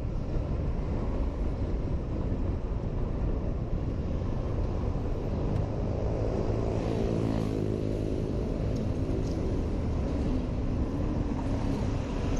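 Riding a Honda PCX 125 scooter in city traffic, heard from a helmet camera: steady wind and road rush with engine noise. About six to eight seconds in, another vehicle's engine passes, its pitch rising and falling.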